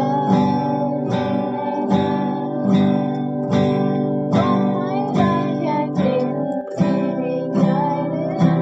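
Acoustic guitar strummed in a steady rhythm, with a higher melody line wavering above the chords.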